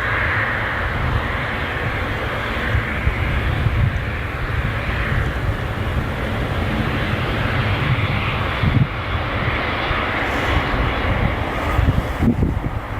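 Jet airliner's engines heard close by, a steady loud rushing noise over a deep, uneven rumble.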